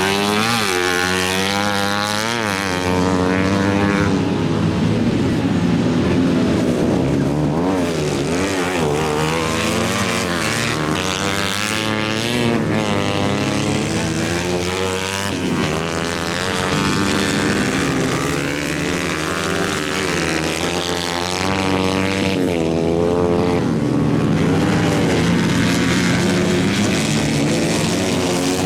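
A 125 cc engine running steadily, its revs rising and falling repeatedly as the throttle is worked.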